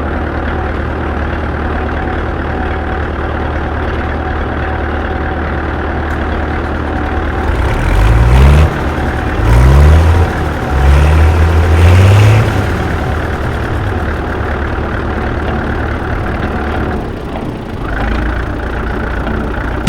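1947 McCormick ODS-6 orchard tractor's diesel engine running steadily while driving. From about 8 to 12 seconds in, the engine note climbs sharply four or five times in quick succession and grows louder, then settles back to its steady running.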